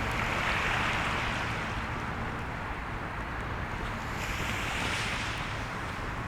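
Sea surf washing onto the shore: two swells of rushing water, one near the start and one about four seconds in, over a steady low rumble.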